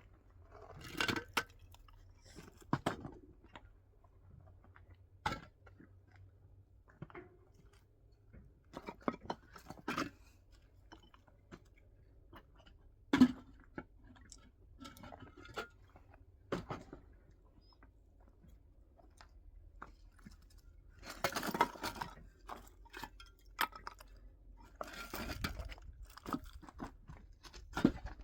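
Irregular crunching and sharp knocks with quiet gaps between them, the loudest a single sharp knock about halfway through, with denser crunchy bursts near the end.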